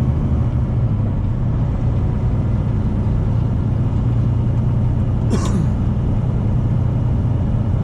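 Semi-truck driving at steady speed, heard from inside the cab: a constant low engine and road drone. A brief sharp noise cuts in once, about five and a half seconds in.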